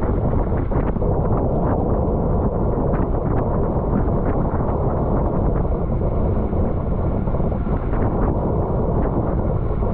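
Wind rushing over the microphone of a camera riding on a racing bicycle at speed, a steady heavy rumble with a few faint clicks.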